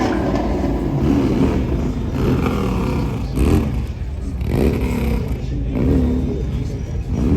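Car engine revving up and down again and again over a steady low rumble.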